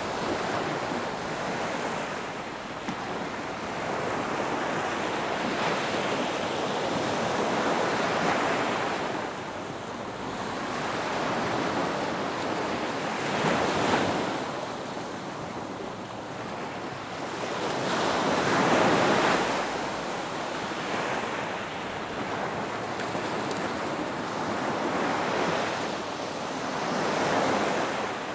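Ocean surf breaking on a beach: a steady wash of noise that swells with each wave, about four to five wave crests rising and falling.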